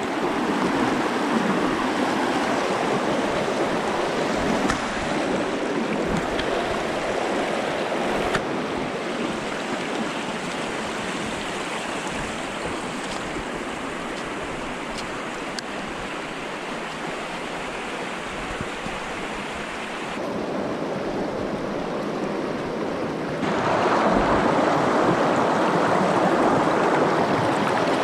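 Rushing water of a small brook running high in spring, a steady noise that shifts abruptly in level a few times and is loudest near the end.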